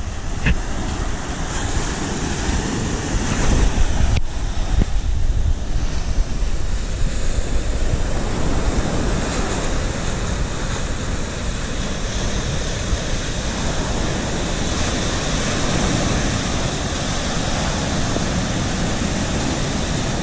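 Stormy sea surf breaking and washing on the shore, a steady rushing noise, with wind buffeting the microphone in low rumbles.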